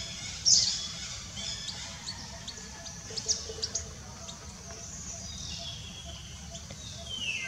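Birds chirping in many short, high calls, with one longer call falling in pitch near the end, over a steady low rumble.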